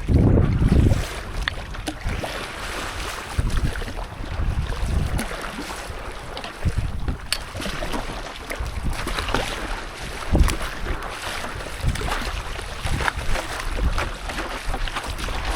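Wind buffeting the microphone in uneven gusts, the strongest right at the start, over water sloshing and splashing around a stand-up paddleboard on the sea.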